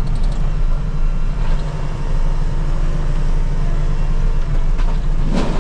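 JCB Teleskid 3TS-8T's diesel engine running steadily at working speed, driving a hydraulic FECON mulcher head through brush.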